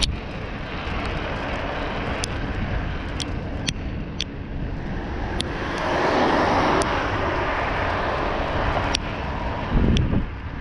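Continuous wind and road noise on a moving bicycle, with a car passing that swells up about six seconds in and fades after a few seconds. Scattered light clicks come from the bike.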